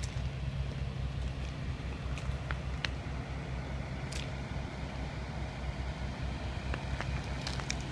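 Heavy diesel truck engine, the Peterbilt 389's Cummins ISX, idling steadily with an even low pulsing, with a few faint clicks.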